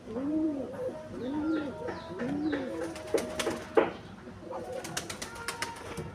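Pigeons cooing: low coos that rise and fall, repeating about once a second through the first half. In the second half come sharp clicks and taps, one louder knock, then a quick run of clicks.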